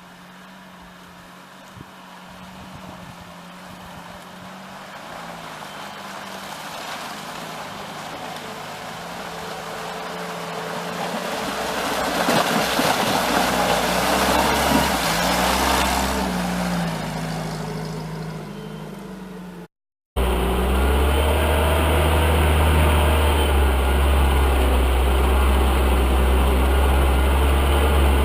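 UAZ off-road vehicle engine running: it grows steadily louder, is loudest about halfway through, then fades. After a sudden cut, the engine runs steady and much louder with a deep rumble.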